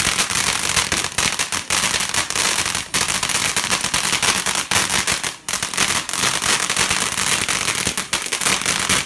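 Garden firework crackling: a dense, continuous spray of rapid small pops that keeps going without a break.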